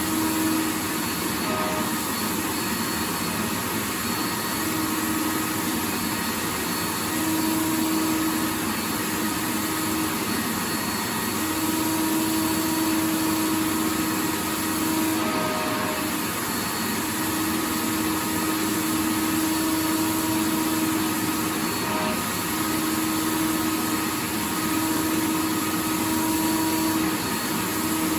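Vacuum cleaner running steadily: a continuous rushing-air noise with a motor hum that swells and fades every few seconds.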